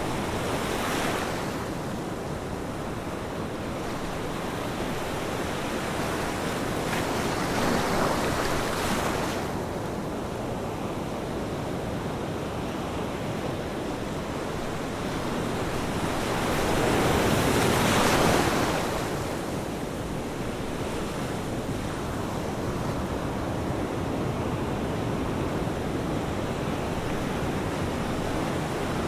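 Ocean waves breaking and washing on the shore, a steady surf hiss with a few swells as waves come in, the biggest about two-thirds of the way through.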